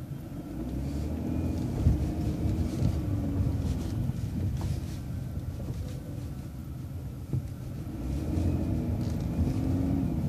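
City transit bus engine running over low road rumble, its pitch rising and then falling twice.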